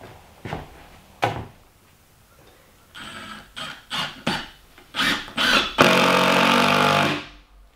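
Several sharp knocks and clatters, then a power tool's motor runs loudly for about a second and a half before dying away.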